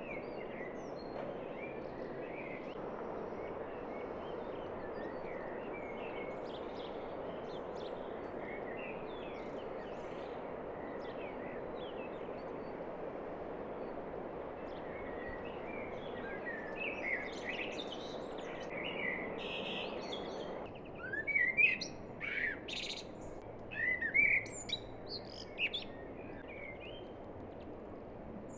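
Songbirds chirping and calling in many short notes over a steady rushing background noise. About two-thirds of the way through, the rushing drops away and the bird calls become louder and more frequent.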